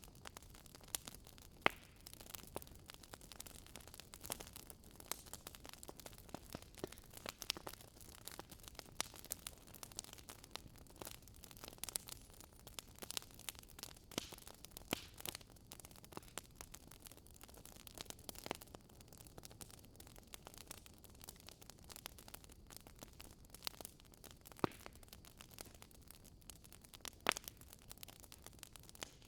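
Campfire burning with a soft hiss and irregular crackles and pops of burning wood, a few sharper pops standing out.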